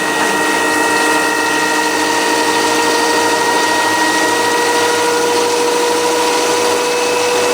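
LG front-loading washing machine spinning at high speed, a steady whine from the motor and drum with no knocking. The drain hose no longer strikes the cabinet now that it is padded with a sponge.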